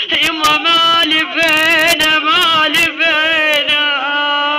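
A woman's voice singing a long, wordless melismatic line of a Shia na'i lament, its held notes wavering with vibrato and bending between pitches, broken by short catches.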